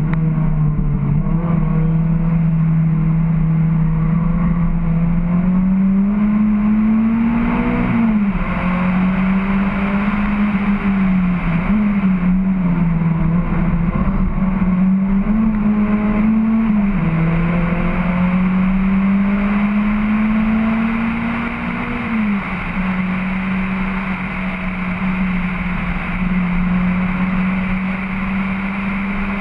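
Honda H22 2.2-litre DOHC VTEC four-cylinder in an EG Civic hatchback under hard track driving: the engine note climbs and drops off sharply several times as the car is driven through corners and gears, then holds steady and slightly quieter near the end, over road and wind noise.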